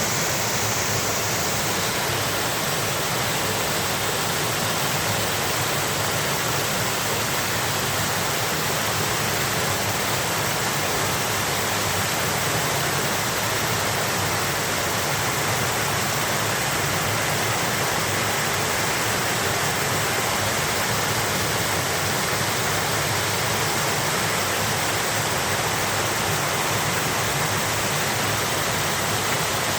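Rushing water: a loud, steady, unbroken rush with no change throughout.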